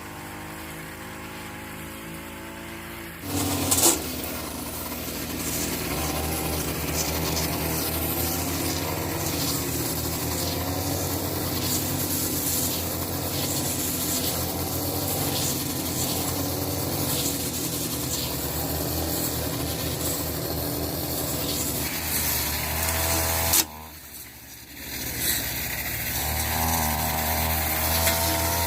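An engine-driven machine running, quieter for the first few seconds and then working steadily under load with a grinding, rasping noise; it drops out briefly around 24 seconds in and picks up again.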